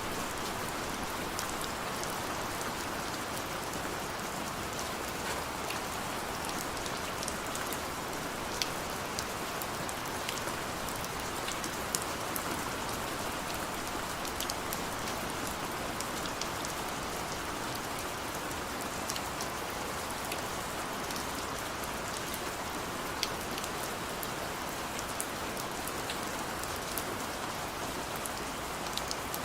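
Heavy rain falling steadily, a constant hiss with sharp clicks of individual drops hitting a surface.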